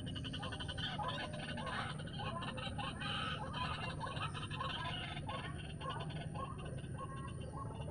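White-breasted waterhen calling over and over, a rhythmic run of harsh repeated notes at about two a second, with a fast rattling pulse above them.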